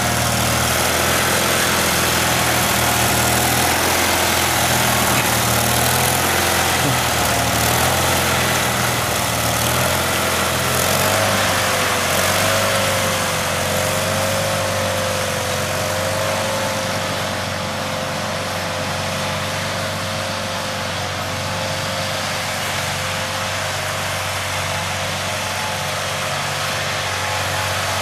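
Sears SS16 lawn tractor's 16 hp Onan engine running steadily through an aftermarket glass-pack muffler. The engine note shifts about a third of the way in.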